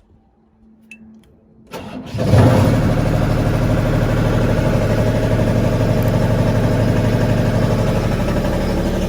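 Engine of a lift cranking briefly and catching about two seconds in, with a short surge, then settling into a steady idle. It starts even though the key had been left on and the battery was feared dead.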